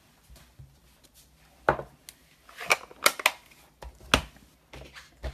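Rubber stamp inked on an ink pad and pressed onto cardstock on a desk: a handful of sharp taps and knocks, starting about a second and a half in.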